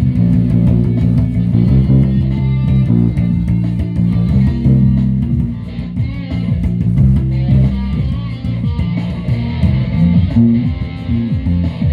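Guitar music with a bass line, plucked and strummed guitar notes over a full low end.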